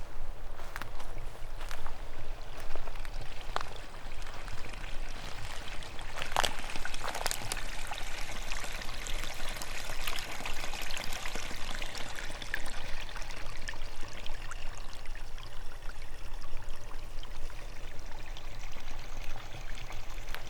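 A forest stream running steadily, its rushing swelling a little in the middle, with a few scattered sharp clicks.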